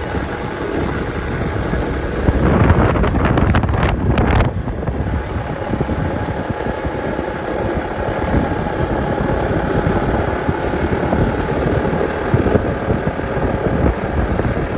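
Motorcycle engine running steadily while riding, with wind noise on the microphone. The wind noise grows louder for a couple of seconds about three seconds in.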